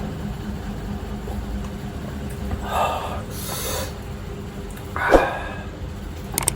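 A person's sniffs and breaths through the nose and mouth while eating very spicy cup noodles, a few short ones with the sharpest about five seconds in.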